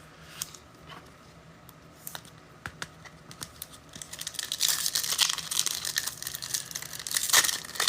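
Handling trading cards, with light scattered clicks, then a foil trading-card pack wrapper crinkling and tearing open in a dense crackly rustle from about halfway through.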